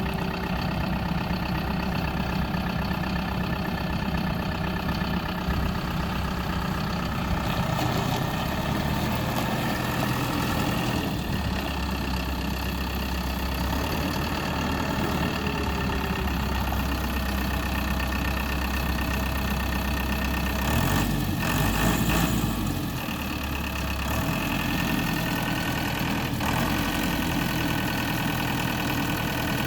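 2015 Deutz-Fahr Agroplus 420F tractor's diesel engine running steadily at idle, its low note shifting a few times and briefly louder about three quarters of the way through.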